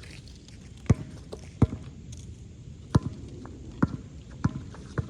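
Basketball bouncing on a hard court: six dribbles at an uneven pace.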